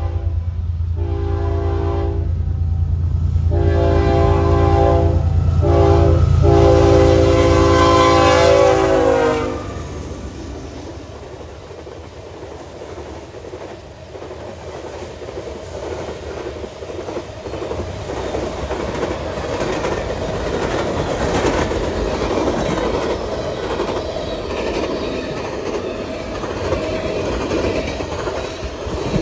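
A freight train's locomotive horn sounds the long-long-short-long crossing signal over the heavy rumble of the diesel locomotives, and the last blast drops in pitch as the engines pass, about nine seconds in. The horn and engine noise then cut away to the steady rolling and clickety-clack of the freight cars going by, which slowly grows louder.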